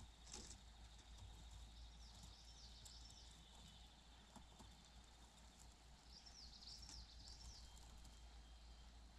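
Faint, high bird chirps in two short bouts, about two seconds in and again around six to seven seconds in, over a steady high, pulsing insect-like trill and a low background hum.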